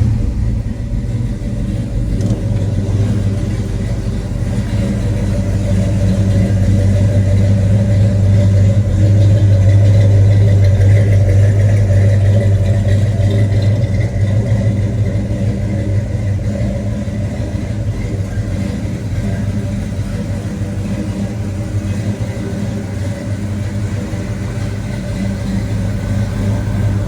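1970 Chevelle SS 396's big-block V8 idling steadily, running a little louder for a few seconds near the middle.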